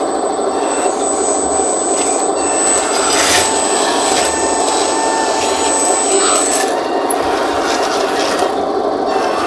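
A 1:14 scale Double E E116 RC hydraulic skid steer loader running with a steady, rasping buzz. A thin high whine stops about two-thirds of the way through.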